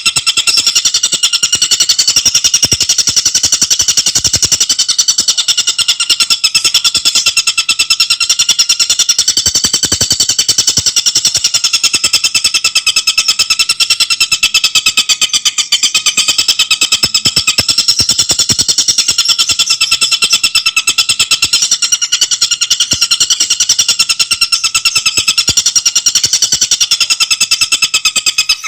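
Tengkek buto bird singing a continuous, very fast high-pitched rattling chatter of densely packed notes, without a break.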